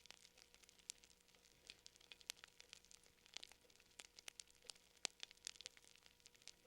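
Wood fire crackling softly: irregular small snaps and pops, several a second, with a few sharper ones.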